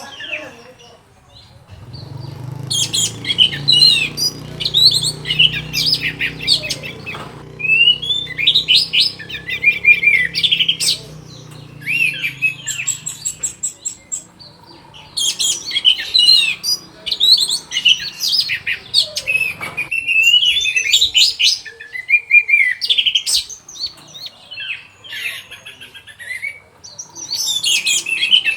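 Orange-headed thrush singing a fast, varied song in runs of phrases broken by short pauses. A low hum sits under the song through the first half.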